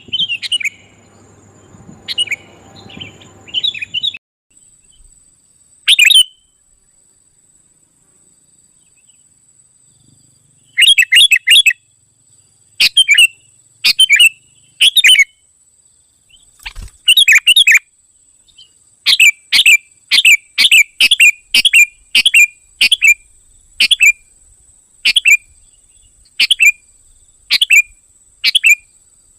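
Sooty-headed bulbul (kutilang) calling: loud, short, sharp chirps in scattered bursts, settling into a steady run of about one call a second in the second half. These are lure calls meant to draw wild bulbuls in.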